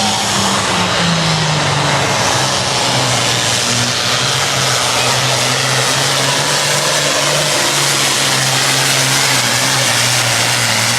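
Single-turbocharged International 1066 pulling tractor's diesel engine running hard under load, pulling the sled. Its pitch drops over about the first second and a half, then holds steady and loud.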